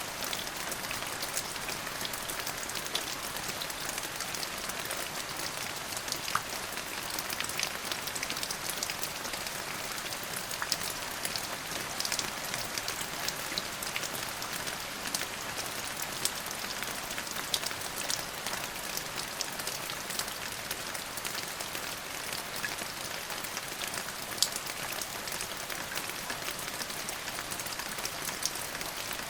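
Steady rain falling, a constant hiss with many small drop ticks on a hard surface.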